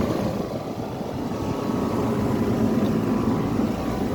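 Rheem central air conditioner condensing unit running: steady hum of the compressor and the rush of the condenser fan.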